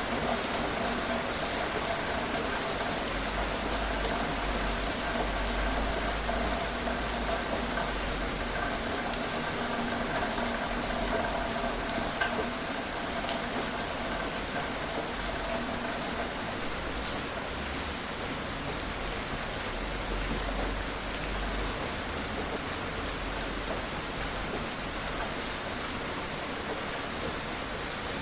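Gentle rain falling steadily: an even hiss with scattered sharper drop ticks, no thunder. A faint steady hum sits under it and fades out about halfway.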